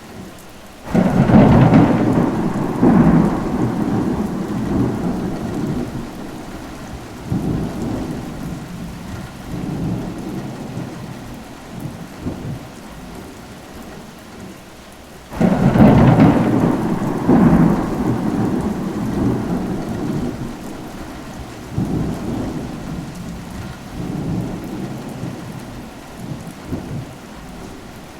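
Steady rain with two rolls of thunder. Each breaks suddenly, one about a second in and another about halfway through, then rumbles on and fades over several seconds with smaller swells.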